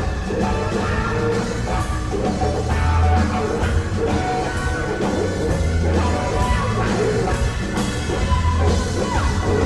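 Live electric blues-rock band: electric guitar playing lines over bass and a drum kit.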